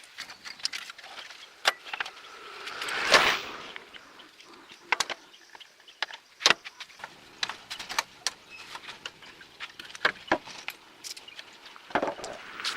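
Hand work with tools on metal parts: scattered light clinks and knocks, with a brief scraping swell about three seconds in.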